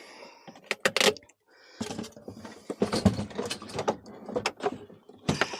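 A run of irregular clicks, knocks and rattles from the heater and its plug being handled as the unit is unplugged and lifted out, with a short pause about a second and a half in.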